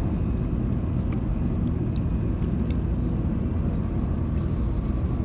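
Steady low rumble of a Shinkansen bullet train running at speed, heard from inside a passenger car, with a few faint clicks.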